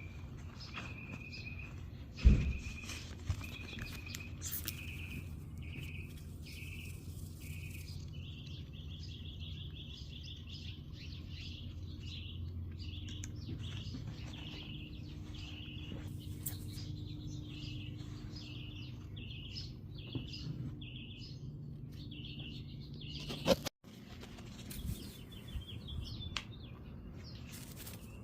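A bird calling the same short note over and over, roughly twice a second, over a steady low hum. A single sharp knock about two seconds in.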